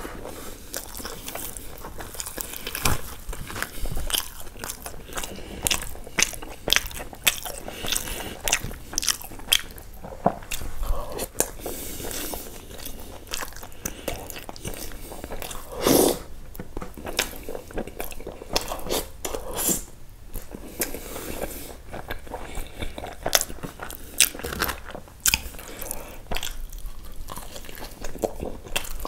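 Close-miked chewing and biting of a man eating butter chicken with naan by hand: many sharp, wet mouth clicks at irregular intervals, with a louder, longer sound about sixteen seconds in.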